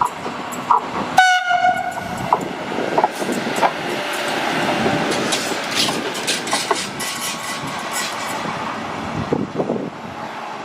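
Two coupled E402B electric locomotives running through a station: a short horn blast about a second in, then the rush of the passing locomotives, with their wheels clicking over the rail joints. The rush is loudest about halfway through.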